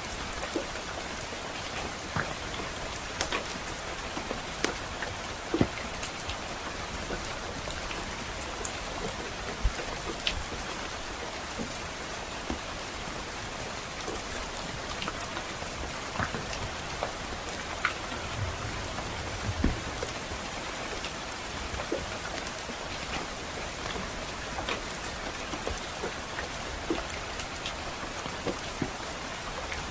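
Steady rain hiss with the scattered sharp pops and snaps of a crackling wood fire. Near the middle come a couple of brief low rumbles.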